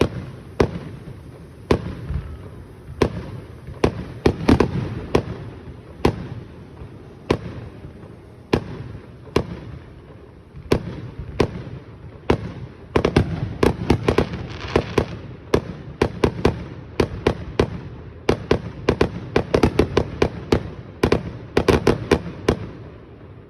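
Aerial fireworks display going off: a string of sharp bangs and booms with rumbling echo between them, spaced about a second apart at first and then coming in quick clusters of many bursts from about halfway through.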